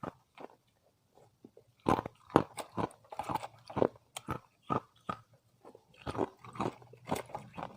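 Thin ice disks being bitten and chewed: many short, crackling crunches. They are sparse in the first two seconds, then come thick and fast from about two seconds in.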